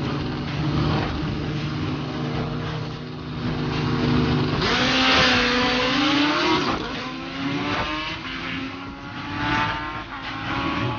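Drag-racing motorcycle engines running, with one revving hard about four and a half seconds in: a loud surge with rising pitch, followed by more rising revs.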